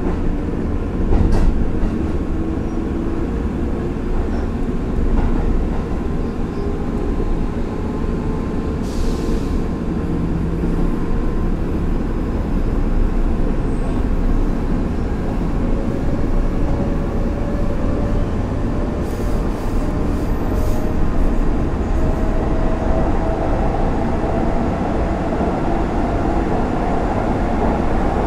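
Running noise inside a Hanshin Railway express train car: a steady low rumble of wheels on rail, with a single clack about a second in. Through the second half a whine rises slowly in pitch as the train's electric motors pick up speed.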